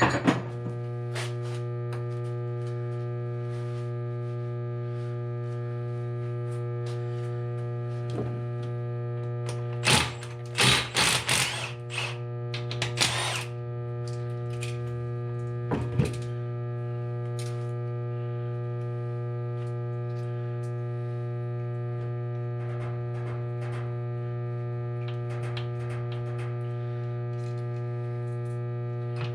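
A steady electrical hum runs throughout. About ten seconds in comes a short cluster of clicks and rattles, typical of a hand ratchet working on an engine's bolts, followed by a single knock a few seconds later.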